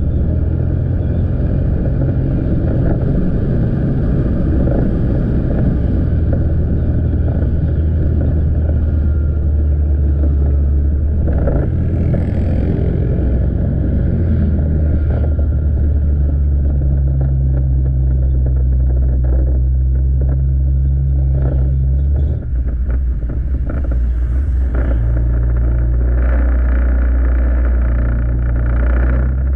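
Motorcycle engine running while riding, with road and wind noise; the engine note changes pitch a few times, dipping briefly about two-thirds of the way through.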